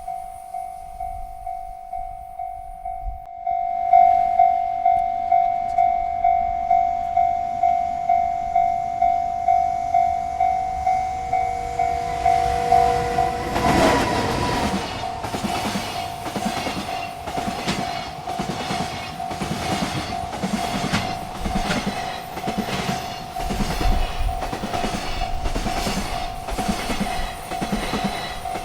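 Railroad crossing bell ringing in even strokes, about two a second. About fourteen seconds in, a freight train reaches the crossing and its cars pass with a rumble and a steady clickety-clack of wheels over the rail joints, while the bell keeps ringing.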